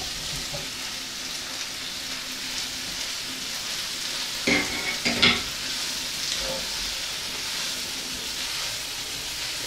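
Chicken, bacon, onion and mushrooms sizzling in a frying pan as the chicken is tipped in and stirred, a steady frying hiss. Two brief clatters about halfway through.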